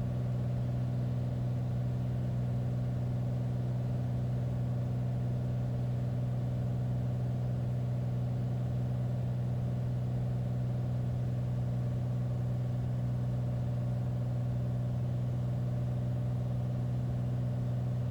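Single-engine Beechcraft Bonanza's piston engine and propeller giving a steady, even drone at reduced approach power, gear down and full flaps, on final approach.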